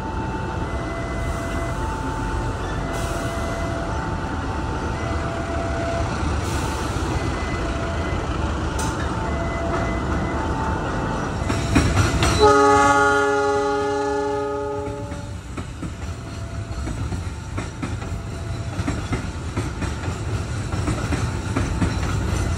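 Container freight train rolling past with a steady rumble and clatter of wagon wheels, over a short two-note electronic tone that repeats every second or two. About twelve seconds in, an approaching KAI diesel locomotive sounds one loud horn blast lasting about two and a half seconds.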